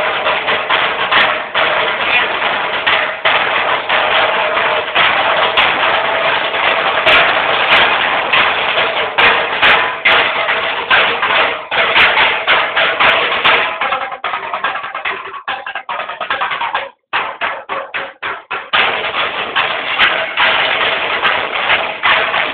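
Marching drum band playing at practice: dense, loud drumming throughout. About seventeen seconds in it cuts off for a moment, a few separate hits follow, and the full playing comes back in.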